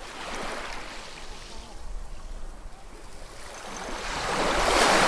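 Sea waves washing in: a small wave just after the start, then a larger one swelling from about four seconds in to its loudest at the end.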